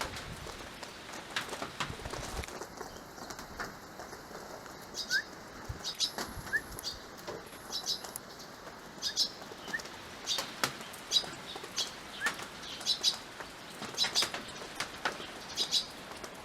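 Eurasian tree sparrows chirping and fluttering their wings, in many short, scattered bursts with a few quick rising chirps.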